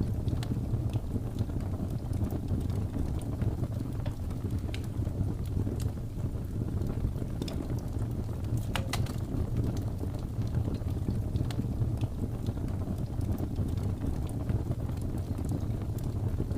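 Wood fire crackling, with sparse sharp pops and a short burst of several about halfway through, over a steady low rumble of snowstorm wind.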